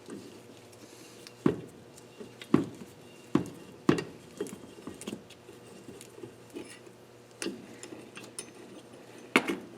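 Irregular metal clicks and taps from a valve spring tool and valve parts on a KA24DE cylinder head as the valves are taken apart, about half a dozen sharp knocks spread over several seconds.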